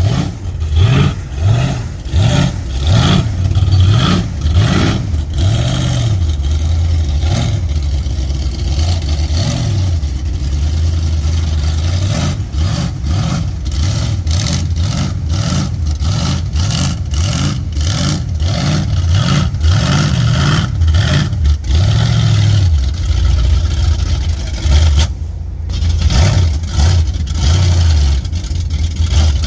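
Big-block Ford V8 in a 5-ton truck revving up and falling back over and over as it churns through deep mud, the pitch rising and dropping every second or two.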